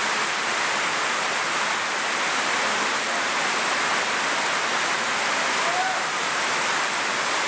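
Heavy monsoon rain pouring steadily onto waterlogged ground and puddles, a dense, even hiss.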